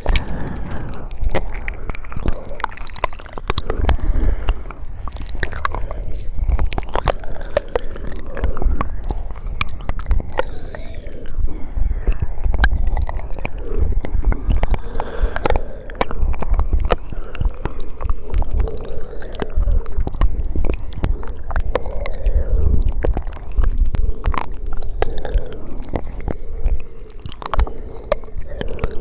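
Close-miked ASMR mouth sounds: a continuous run of wet clicks, smacks and tongue noises, with a steady low rumble underneath.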